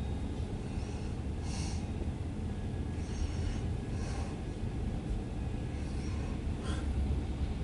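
Loaded CSX autorack freight train rolling past, a steady low rumble from its wheels and cars. Fainter hissing sounds come back about once a second.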